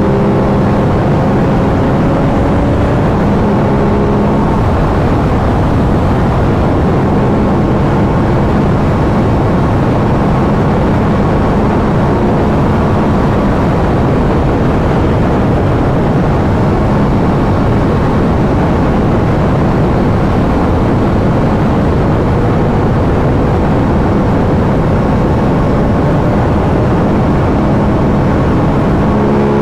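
Aprilia RS 660's 659 cc parallel-twin engine on its stock exhaust, cruising at a steady highway speed, its engine note fading in and out under loud, steady wind rush on the microphone.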